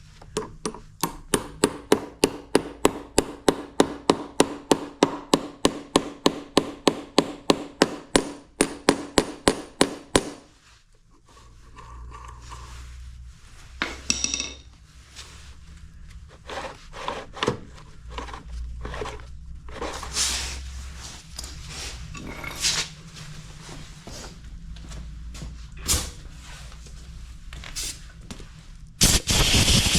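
Hammer striking in a steady run of sharp blows, about three or four a second for some ten seconds, then stopping. After that come scattered knocks and the handling of parts, and a loud hiss starts near the end.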